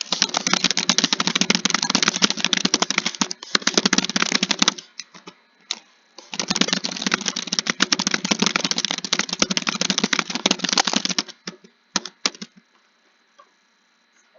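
Fast typing on a computer keyboard: two long runs of rapid keystrokes with a short pause between them, then a few single key presses before it stops near the end.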